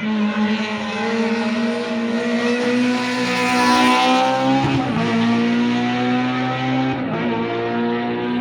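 A rally car's engine running hard at high revs as it drives past, loudest about four seconds in. The note breaks briefly twice, near five and seven seconds in, as it changes gear.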